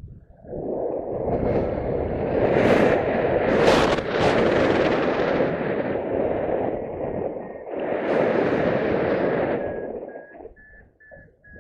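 Wind buffeting the microphone in strong gusts. A steady high electronic tone sits under the wind and breaks into short, evenly spaced beeps near the end.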